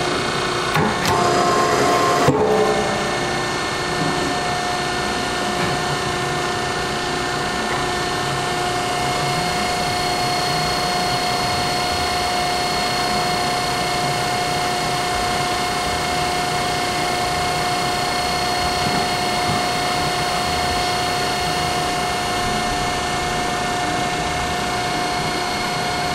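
Hydraulic log splitter running: its motor and pump give a steady hum with a thin, constant whine. A few sharp knocks come in the first two or three seconds.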